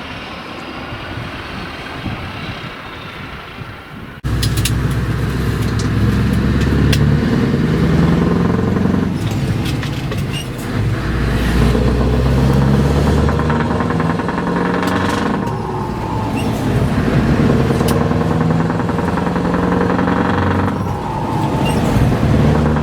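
Scania V8 truck engine through an open exhaust pipe. It runs quieter for the first few seconds, then a sudden cut brings in a loud, deep V8 note that rises and falls in pitch.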